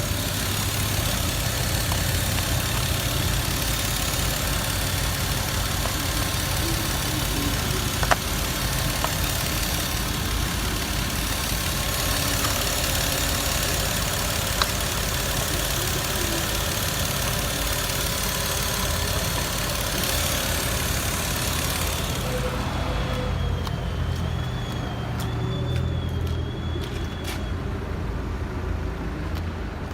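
Audi 2.4-litre BDW V6 petrol engine idling steadily. Its high hiss falls away about three quarters of the way through, and a few faint clicks can be heard.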